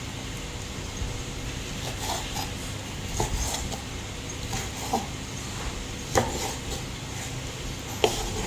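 Kitchen utensils and dishes knocking and clinking, about five separate knocks with a short ring, over a steady low hum.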